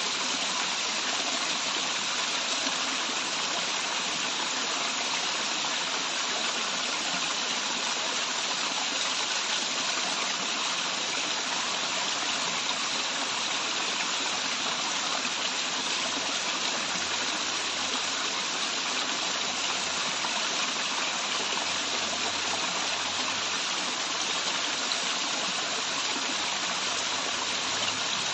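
Waterfall and running stream water, a steady rushing with no change in level.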